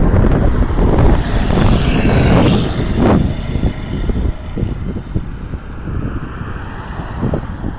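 Strong wind buffeting the microphone, rumbling and gusting. A louder passing sweep swells and fades in the first three seconds, and the rumble is lower after that.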